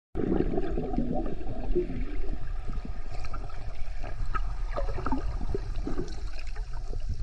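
Sea waves washing up and foaming on a beach: a steady rush of water with a low rumble.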